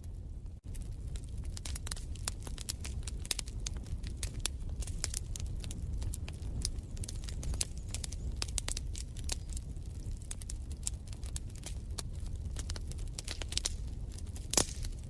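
Wood fire in a fireplace crackling: many small irregular pops and snaps over a steady low rumble, with one louder pop near the end. The sound drops out for a split second just after the start.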